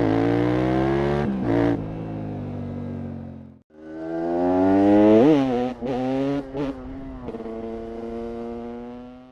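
KTM 690 SMC R single-cylinder supermoto engine accelerating hard, its pitch climbing then dropping with brief breaks at the gear changes. This happens in two separate runs, each fading in and out, with a short break between them.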